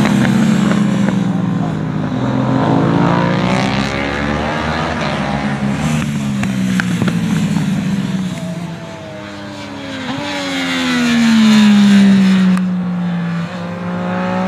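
Several racing sportbikes in the 650–660 cc twin and triple class pass one after another at speed, each engine note sweeping and dropping in pitch as it goes by. The loudest pass comes about eleven to twelve seconds in.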